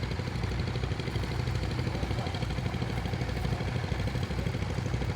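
Tractor engine idling steadily, with an even low beat.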